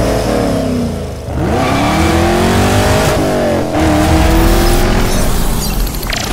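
Car engine revving hard as the car accelerates away, its pitch climbing through the gears and dropping briefly at two gear changes.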